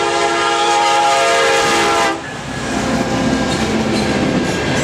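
Canadian National locomotive's air horn sounding a long chord of several tones that cuts off about two seconds in. The train's wheels then clatter and rumble on the rails as it passes through the crossing.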